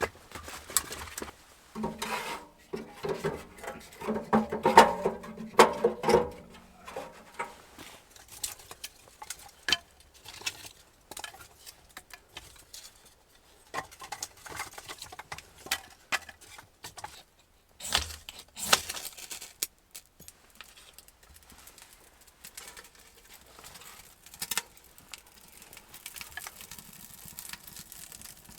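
Scattered light knocks, clicks and clatter of objects being handled, with a louder, denser stretch of clattering and ringing about two to six seconds in.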